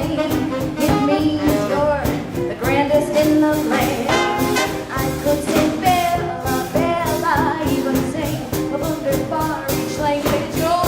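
Live swing band playing a 1940s-style number, with a singer's voice and horns over a steady beat.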